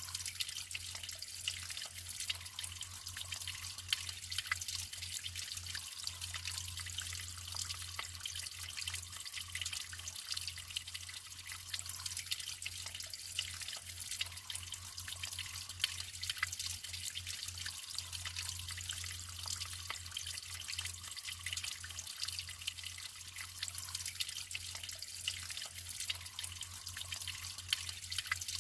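Naturally flowing water trickling and splashing steadily, a constant hiss full of small drips and splashes.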